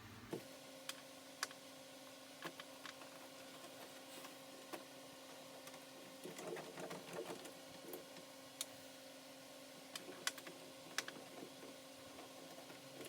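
Scattered light clicks and taps of hand-fitting a metal door handle and its nuts onto a vehicle door, a small cluster of them about halfway through, over a faint steady hum.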